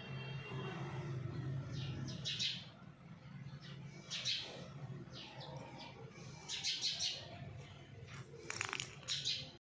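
Small birds chirping in short, scattered bursts, several near the end, over a steady low hum.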